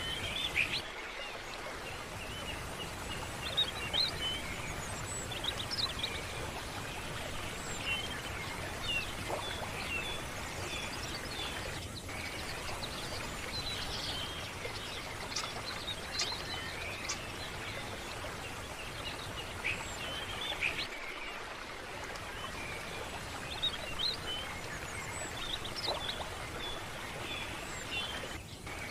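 Small birds chirping and calling over a steady rush of running water.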